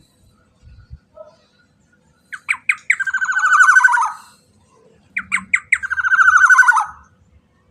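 Black-naped oriole calling twice: each call opens with three short sharp notes, then runs into a rapid buzzing rattle about a second and a half long that falls slightly in pitch.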